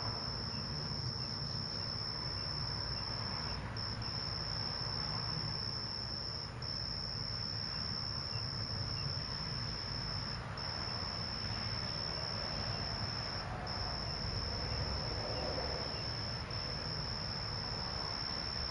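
Crickets trilling: one steady high-pitched note broken by short pauses every two or three seconds, over a low steady background rumble.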